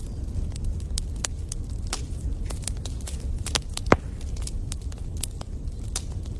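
Wood fire burning in a fireplace, crackling with irregular sharp pops over a low steady rumble. One louder pop comes a little past halfway.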